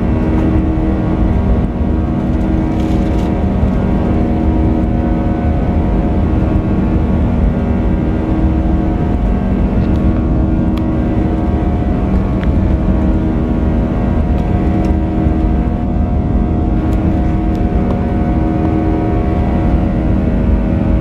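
Steady jet-engine cabin noise of a Boeing 737-800 with CFM56-7B engines, heard from inside the passenger cabin: a continuous hum with several steady tones and no change in pitch.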